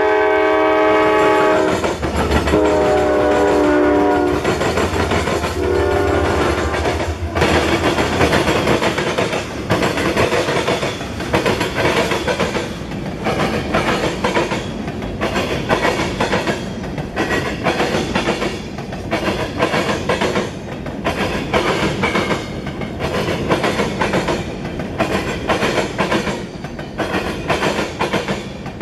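Freight train passing close by: the lead diesel locomotive sounds its multi-note air horn in three blasts in the first seven seconds over the rumble of the engines, then a long string of empty centerbeam flatcars clatters past, wheels clicking and banging over the rail joints.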